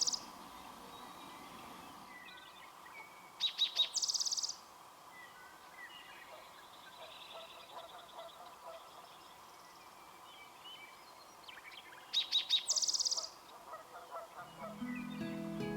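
Spotted towhee singing twice, each song a few short notes followed by a fast trill, with faint calls of other birds between. Guitar music comes in near the end.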